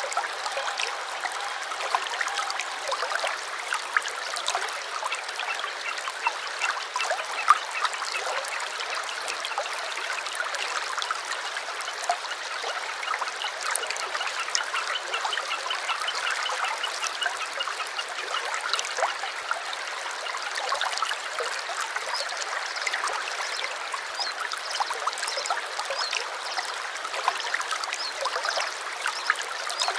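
Small stream babbling and trickling steadily over stones, with faint bird chirps in the background.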